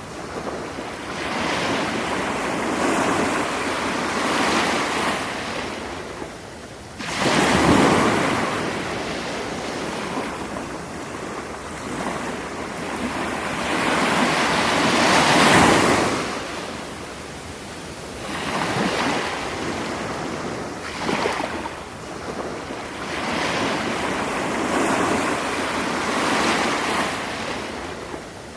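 Sea waves breaking on a beach, surging and fading every few seconds, with the strongest breaks about a quarter of the way in and about halfway through.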